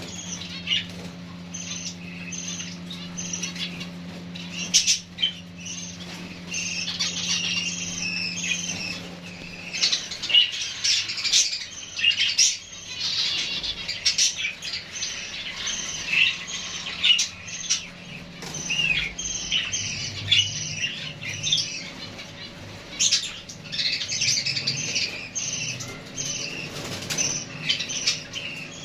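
Pet finches chirping with many short, high calls and fluttering their wings, with scattered sharp clicks as they move about the cage. A low steady hum sits under the calls for about the first ten seconds.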